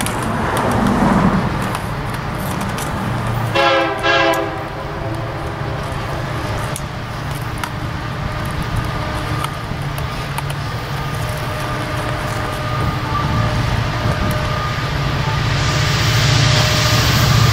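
Diesel locomotive horn sounding two short blasts about four seconds in, then the low rumble of the approaching train growing louder toward the end.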